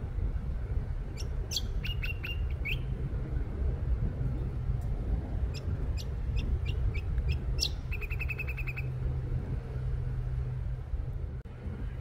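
Brown honeyeater singing: two bursts of sharp, high whistled notes, the second running into a quick rattling trill a little past halfway, over a steady low rumble.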